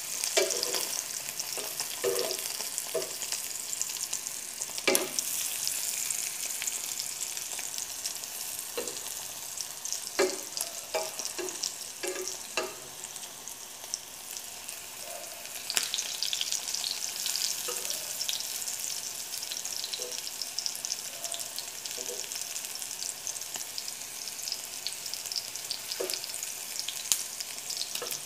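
Hot dog sausages sizzling steadily in a frying pan, with a metal spoon now and then scraping and clinking against the pan as they are stirred and turned.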